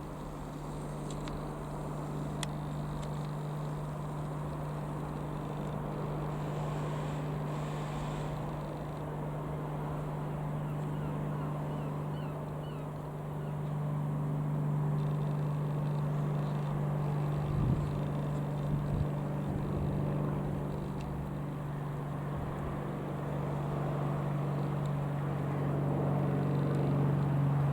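Rockwell Commander 114's single piston engine and propeller running with a steady low drone that grows gradually louder, with a few brief low thumps about two-thirds through.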